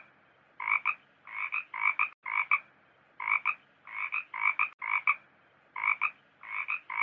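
A frog croaking over and over: short croaks of two quick pulses each, nearly two a second, in uneven groups.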